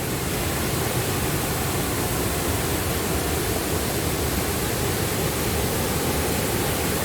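Waterfall water rushing over rocks, a steady, even rush of noise.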